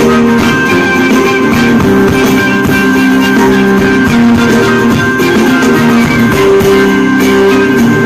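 Loud amplified live fusion music, led by a plucked string instrument such as a guitar over held low notes that change every second or so.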